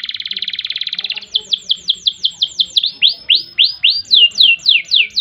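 Domestic canary singing: a rapid, even trill for about the first second, then a run of quick whistled notes sweeping downward, about five a second, with a few upward-sweeping notes in the middle before the falling notes return.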